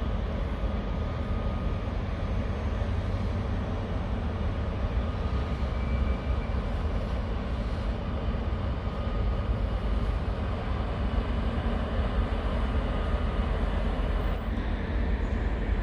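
Steady low rumble of electric trains in a rail yard, with a faint high whine that comes and goes.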